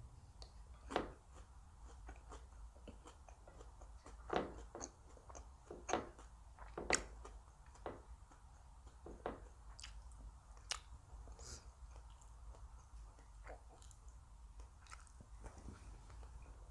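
A person chewing and biting food close to the microphone, with irregular crisp crunches; the loudest bites come about a second in and between four and seven seconds in.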